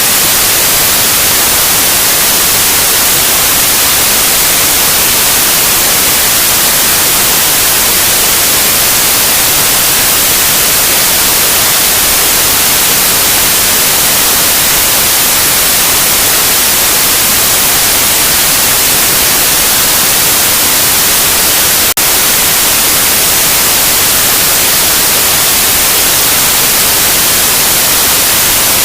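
Loud, steady white noise: an even hiss across all pitches, weighted toward the high end, with one tiny click about two-thirds of the way through.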